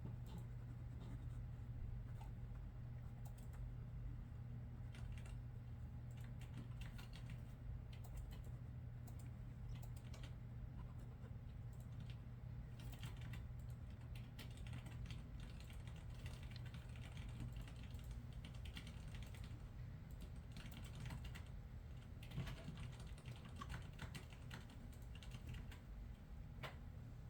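Typing on a computer keyboard: irregular bursts of faint keystroke clicks over a steady low hum.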